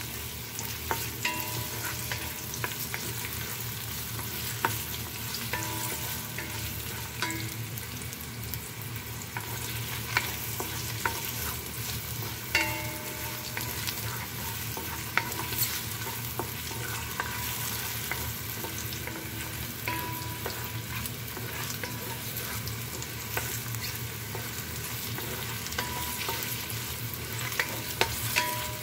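Sliced dried shiitake mushrooms sizzling steadily as they fry in hot oil in an enamelled pan, stirred with a wooden spatula that knocks and scrapes against the pan now and then.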